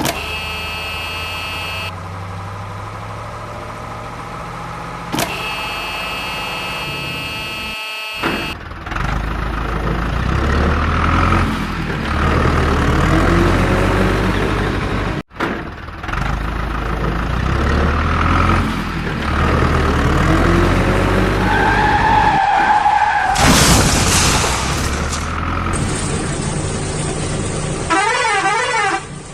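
Cartoon vehicle sound effects: engines running and horns honking, with a loud crash-like burst of noise a little past the middle.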